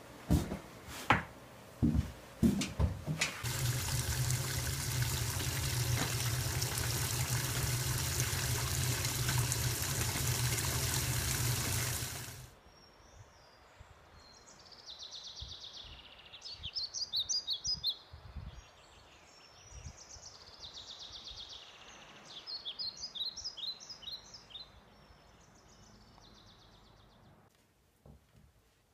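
A few knocks and rustles of laundry being handled, then a loud steady rush of running water with a low hum for about nine seconds that cuts off suddenly. After it, small birds chirp in quick high trills, in two bursts.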